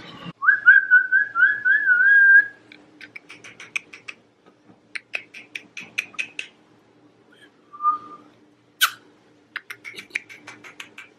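A person whistling a short wavering tune, then a hamster nibbling a crunchy treat: runs of small quick clicks, broken by a brief whistle and one sharper click.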